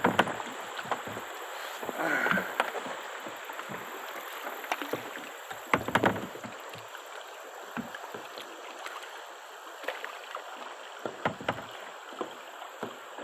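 Kayak on moving river water: a steady rush of water around the boat, broken by irregular knocks and splashes of the paddle against the water and hull.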